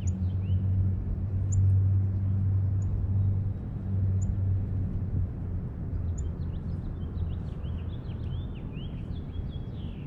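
Small birds chirping in short repeated notes, with a few sharp high ticks, over a low steady mechanical hum that is loudest for the first few seconds and then eases off.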